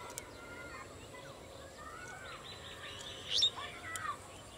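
Birds chirping and calling, with short gliding notes and a louder sharp chirp about three and a half seconds in.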